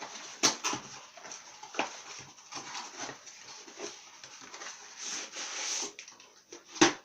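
Unpacking a vacuum sealer: packaging rustling and handling knocks, with a longer rustle about five seconds in and a sharp knock near the end.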